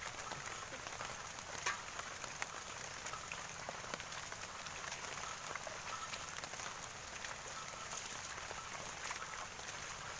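Heavy rain falling: a steady hiss with scattered sharp drop taps, one louder tap about a second and a half in.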